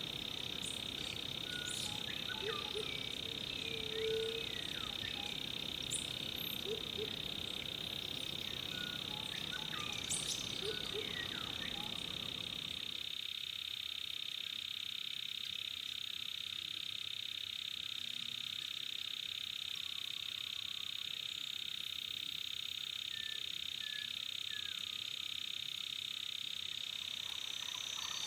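Rainforest night ambience: a steady high-pitched chorus of frogs and insects, with many short chirps and calls scattered over it. The lower background noise underneath cuts out suddenly about halfway through.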